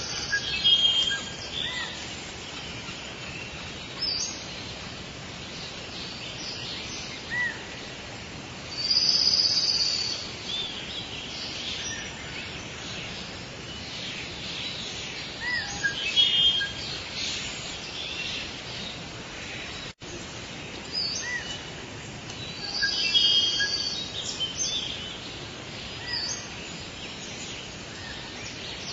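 Forest birds calling, with short chirps, whistles and trills from several birds overlapping over a steady hiss of background noise. The loudest bursts of calling come about a third of the way in and again toward the end, and the sound drops out for a split second about two-thirds through.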